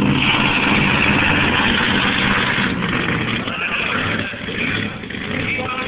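Two-wheel-drive pulling truck's engine running hard at high revs, then easing off about four seconds in.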